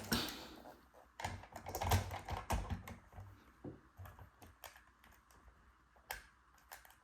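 Irregular hard plastic clicks and taps as batteries are fitted into the LEGO 4.5V train battery box and its parts are handled, busiest in the first few seconds and thinning out towards the end.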